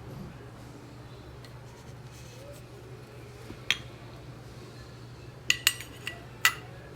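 Sharp clinks of kitchenware, metal against cup or glass: one about halfway through, then four in quick succession near the end, each with a short ring.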